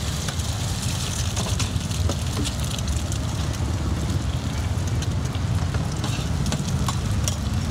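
Oil sizzling on a large flat griddle as cubes of rice-flour cake and eggs fry, with a metal spatula and knife clicking and scraping against the pan now and then, over a steady low rumble.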